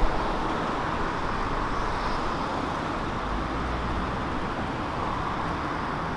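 Road traffic on a city street: vehicles going past with steady engine and tyre noise, and a low engine rumble a little past the middle.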